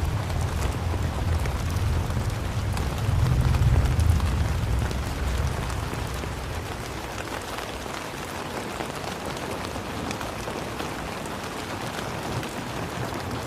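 Steady rain falling, an even hiss dotted with the patter of individual drops. A deep low rumble underneath in the first few seconds dies away.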